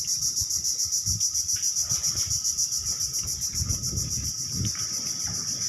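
Insects chirring in a steady, rapidly pulsing high drone, over a gusty low rumble of strong wind buffeting the microphone.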